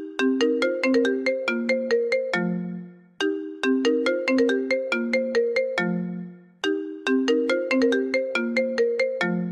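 iPhone ringtone playing on a loop: a quick phrase of bright, struck notes that ends on a lower note fading away. After a short gap it repeats, about every three seconds, three times over.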